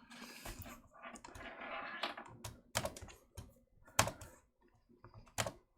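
Typing on a computer keyboard: irregular sharp key clicks, the loudest about four seconds in and again near the end.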